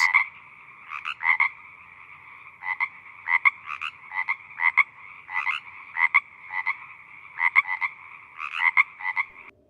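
Frogs croaking: short calls repeating every half second to a second, often in pairs, over a steady chorus of more frogs calling. It stops shortly before the end.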